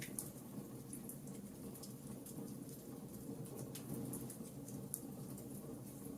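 Wood fire burning in a fireplace, crackling with frequent irregular pops over a steady low rumble of the flames.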